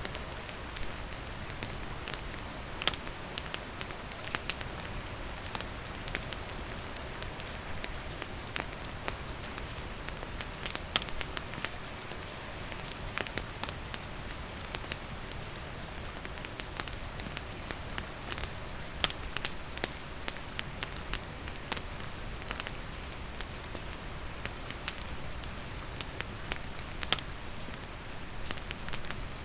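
Steady rain falling on surfaces mixed with a campfire, with frequent sharp crackles and pops scattered irregularly through the rain.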